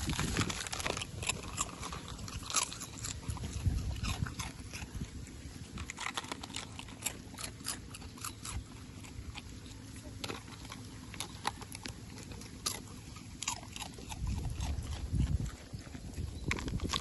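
Dogs chewing and crunching food, heard as a run of irregular short crunches and clicks.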